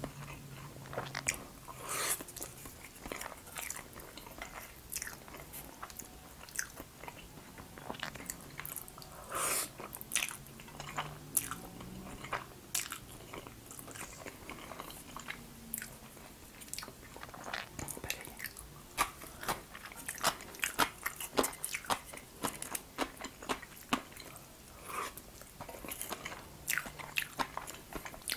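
Close-miked eating of jajangmyeon, noodles in black bean sauce: chewing and mouth sounds made up of many short, sharp clicks at an irregular pace.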